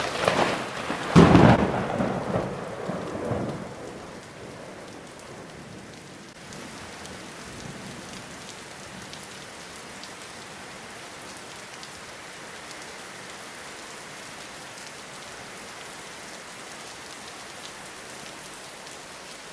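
A thunderclap about a second in, after a sharper crack at the start, rolling into rumbling that dies away over the next few seconds. Steady rainfall hisses underneath and carries on evenly once the thunder has faded.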